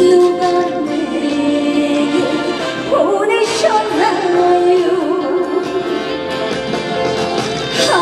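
A woman singing trot live with band accompaniment, holding long notes with vibrato.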